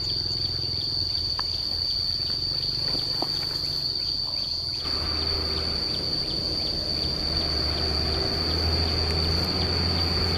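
Singing insect, cricket-like, holding one unbroken high-pitched trill at a steady pitch over a low background rumble.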